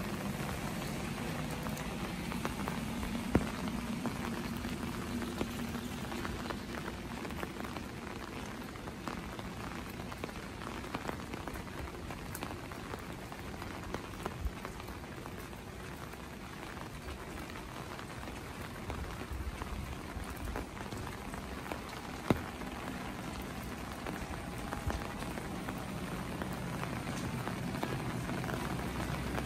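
Steady rain falling on wet streets, an even hiss of rainfall with scattered small drip clicks and two sharper single taps, a few seconds in and about three-quarters through.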